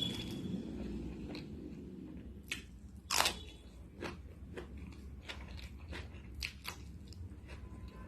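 Close-miked chewing and biting: a run of short crunchy clicks and crackles from the mouth, the loudest about three seconds in.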